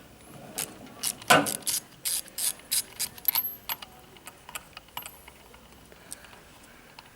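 Hand ratchet clicking in short irregular runs, with one louder clack about a second in; the clicks thin out after about five seconds.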